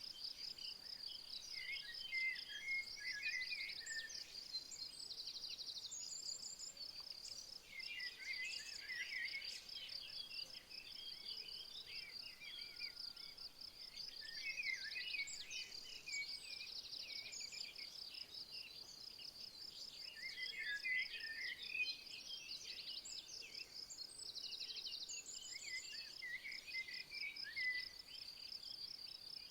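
Insects chirping in a fast, steady, high-pitched pulse, with a songbird singing short, varied phrases about every six seconds over it.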